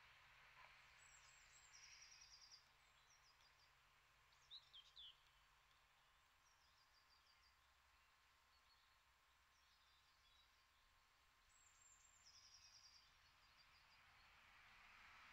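Faint songbird calls over quiet outdoor background hiss. A short high trilled phrase comes about a second in and again near twelve seconds, with a few sharp chirps around four and a half seconds.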